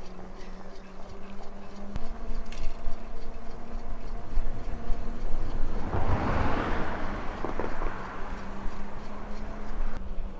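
Riding noise from an electric bike moving down a street: low wind rumble on the microphone under a steady hum. A louder rush of noise swells about six seconds in and fades within a couple of seconds.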